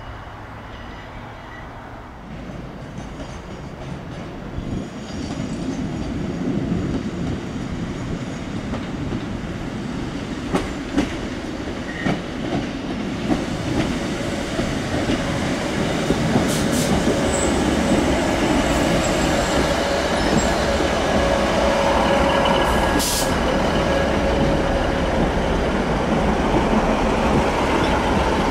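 Northern diesel multiple unit drawing in and running past at close range, its rumble growing steadily louder, with a few sharp clacks of wheels over rail joints and a thin wheel squeal in the second half.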